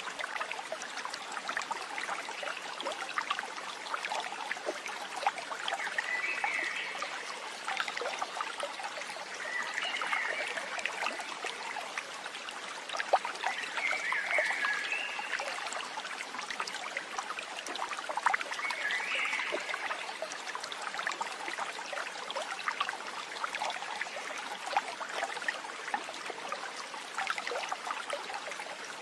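Water trickling and splashing steadily, like a small stream. A short warbling animal call, likely a bird, sounds four times, roughly every four seconds, in the first two-thirds.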